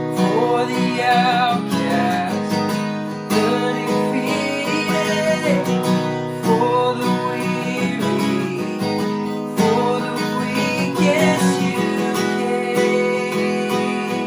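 Worship band music led by a strummed acoustic guitar, with sustained chords and a wavering melody line over them.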